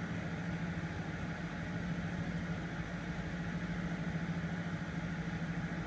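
Car engine idling steadily, a low even hum that holds the same pitch throughout.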